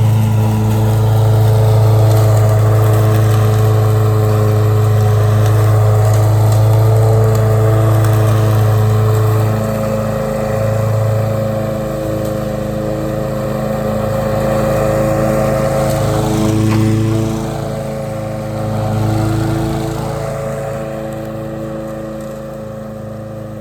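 Small lawn mower engine running under load, its hum wavering after about ten seconds and growing gradually fainter toward the end.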